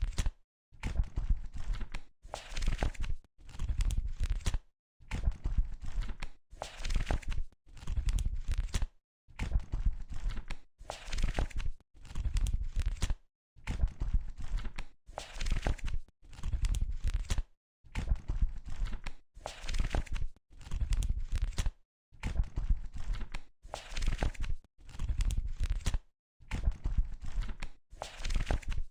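Book pages being flipped one after another: each turn is a short rustle of paper with a soft low thud, separated by brief pauses, in a steady run.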